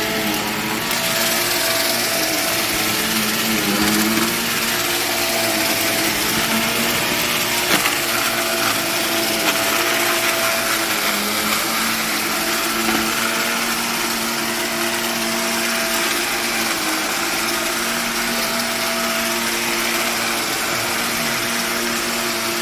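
Carpet-cleaning vacuum suction running steadily on old nylon carpet, its motor tone wavering slightly with the strokes, with a couple of sharp ticks from debris about eight and nine and a half seconds in.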